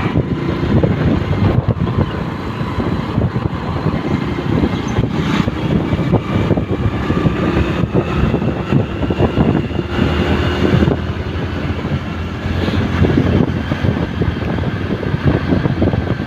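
A vehicle travelling on a road: a steady, dense low rumble of engine and road noise with no break.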